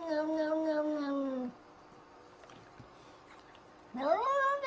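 A cat's long drawn-out meow, its pitch sliding slowly downward, ending about a second and a half in. After a pause of a couple of seconds, another meow begins near the end, rising in pitch.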